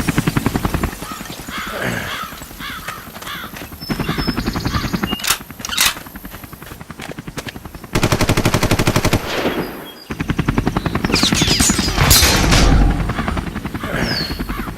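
Machine-gun fire sound effects in several bursts of rapid, evenly spaced shots, with quieter gaps and a few single sharp cracks between the bursts.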